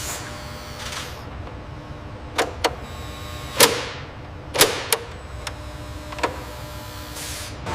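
Assembly-line workshop sounds: about six sharp mechanical clacks and knocks, the loudest two near the middle, over a steady machinery hum.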